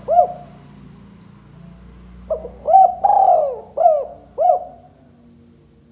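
Spotted dove (tekukur) cooing. The end of one phrase falls right at the start; a full phrase of about five cooing notes, with one longer drawn note in the middle, runs from about two seconds in to about four and a half seconds in.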